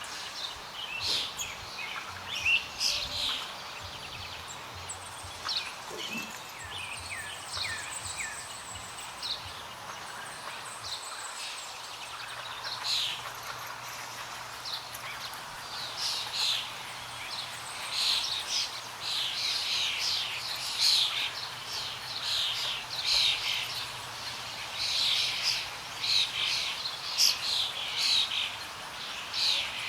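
Wild birds chirping: many short, quick calls, coming thicker and louder in the second half.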